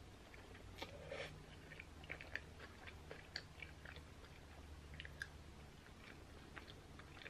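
Faint, close-miked chewing of a mouthful of cheeseburger with the lips closed: soft, wet clicks and smacks, a little stronger about a second in, over a low steady hum.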